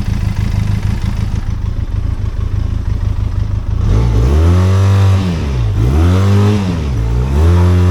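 Benelli TRK 502X's parallel-twin engine running at a steady idle, then revved up and let fall back three times from about four seconds in, as the rider tries to power the bike out of a stream bed.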